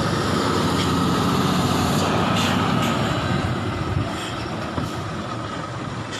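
Heavy truck running on the road: a steady engine and road noise that eases a little in the last couple of seconds.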